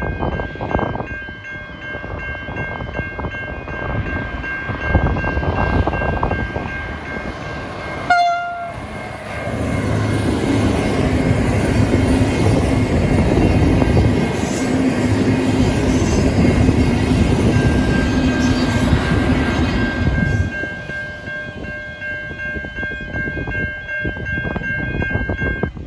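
Level crossing bells ring steadily while a VLocity diesel multiple unit approaches, gives a short horn blast about eight seconds in, and then passes close by for about ten seconds with loud engine drone and wheel noise. The bells keep ringing after the train has gone by.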